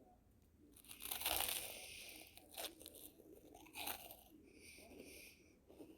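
Biting into crusty garlic bread close to the microphone: a loud crunch about a second in, two sharp cracks a little later, then softer crunchy chewing.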